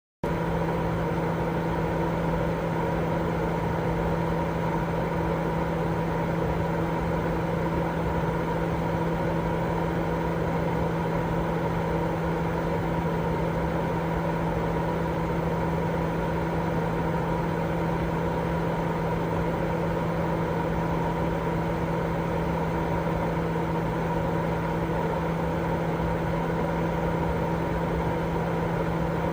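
Continuous white noise for sleep: a steady, even rushing noise with a constant low hum running through it.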